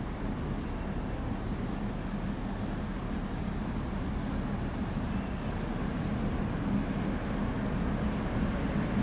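A train running with a steady low hum, growing slowly louder as it approaches.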